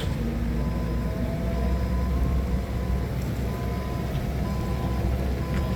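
Forklift engine running steadily, with a faint high tone that sounds on and off several times over it.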